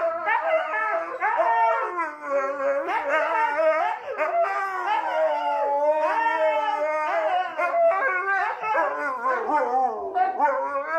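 A dog howling in one long, drawn-out run, its pitch wavering up and down with hardly a break.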